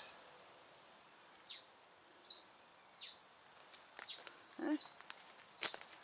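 Wild birds chirping now and then: about five short, high chirps, each falling in pitch, over a quiet woodland background. A few sharp clicks and a brief rustle come near the end.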